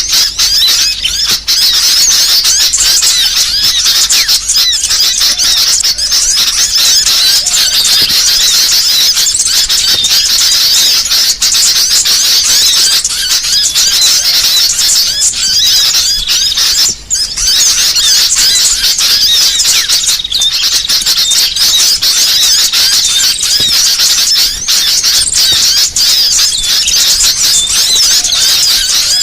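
Many small songbirds twittering and chattering at once in a dense, loud, unbroken stream of rapid high-pitched chirps: a mixed small-bird song recording of the kind played as training and lure audio for songbirds.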